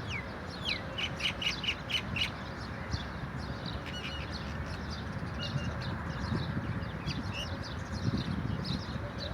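Birds chirping: many short, high chirps throughout, with a quick run of chirps about a second in, over a steady low background rumble.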